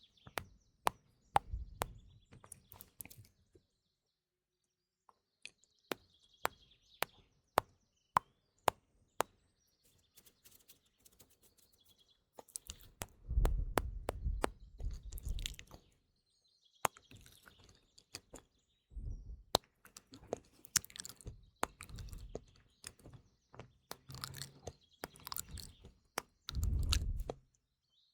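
Close-microphone ASMR mouth sounds: sharp wet clicks and pops in quick runs, with a few louder, lower smacking passages near the middle and near the end. Recorded birdsong chirps faintly behind them.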